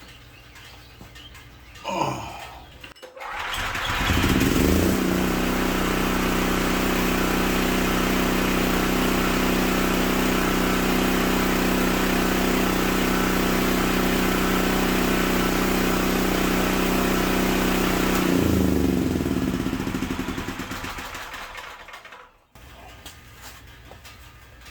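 13-horsepower All Power 6,000-watt portable generator engine starting about three seconds in, quickly settling at a steady governed speed and running evenly. It is then shut off: the pitch falls and the engine winds down to a stop near the end. It now starts and runs after a burnt wire to the ignition switch was repaired.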